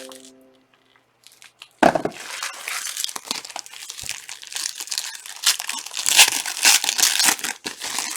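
Foil trading-card pack wrappers being torn open and crinkled: silence, then a sharp crackle a little under two seconds in and continuous crinkling after it.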